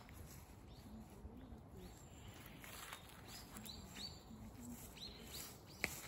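Birds calling in a quiet outdoor setting: a scatter of short, high calls that slide downward, mostly in the second half. A sharp click just before the end is the loudest sound.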